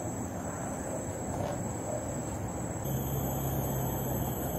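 Steady high-pitched insect trilling, with a low steady hum joining about three seconds in.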